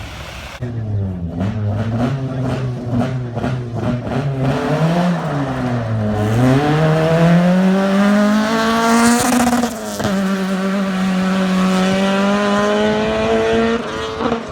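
Rally-prepared Toyota Corolla's engine starting up loud and revving in short pulses. It then accelerates away, pitch rising, with a brief break for a gear change near the middle, then holds a steady high pitch before dropping off near the end.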